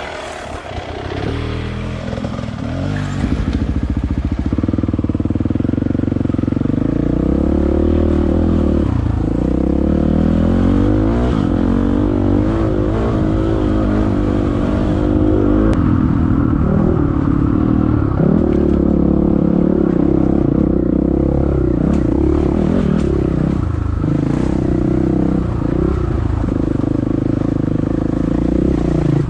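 Dirt bike engine running, its pitch rising and falling again and again as the throttle is worked, getting louder about four seconds in.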